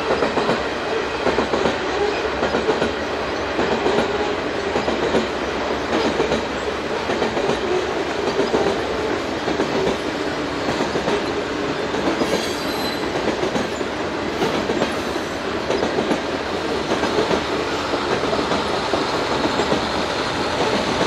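Loaded covered hopper cars of a unit grain train rolling past at speed, a steady rumble with the repeated clickety-clack of wheels over rail joints.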